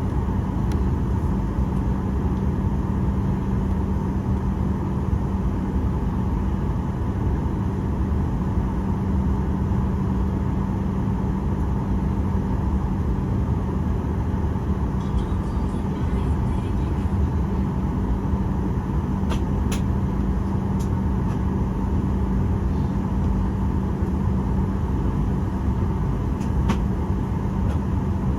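Steady cabin noise inside a Boeing 737-800 with its CFM56 engines at idle before takeoff: an even rush with a constant low hum and no change in power. A few faint clicks come from the cabin about two thirds of the way through and again near the end.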